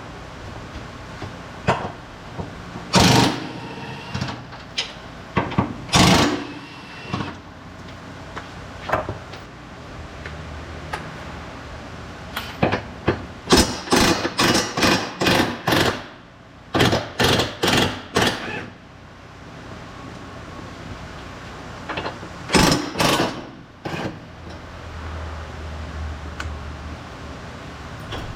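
Tool work on a car's front suspension: a string of short, sharp metallic knocks and rattles, some in quick runs of about three a second, over a low steady hum.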